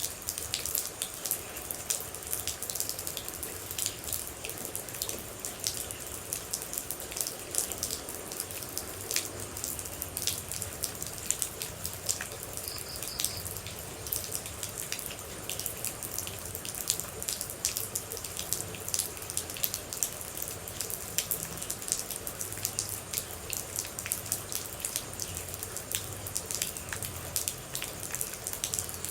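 Rain falling, with a dense, steady stream of close water droplets striking in quick sharp drips.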